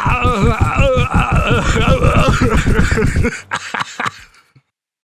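A voice with a wavering pitch, sounding like laughter, over rapid pulsing for about three seconds, then dying away to silence.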